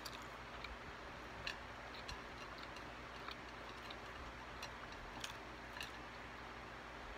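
Faint mouth sounds of someone eating french fries: small, irregular clicks and smacks of chewing over a low steady hiss.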